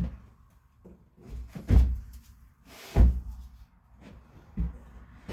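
Four dull thumps and knocks, a second or so apart, the two in the middle the loudest, from parts and tools being handled during engine teardown work.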